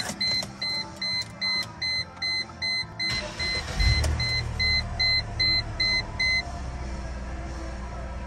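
A dashboard warning chime beeps evenly, about three times a second. About four seconds in, a 1998 Mercedes-Benz engine cranks briefly, starts and settles into a steady idle. The chime stops a couple of seconds after the engine catches.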